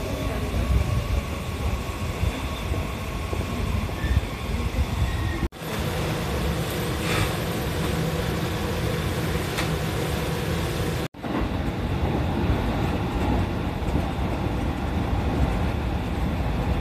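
Train running: a steady rumble, heard in three pieces joined by short cuts about five and a half and eleven seconds in.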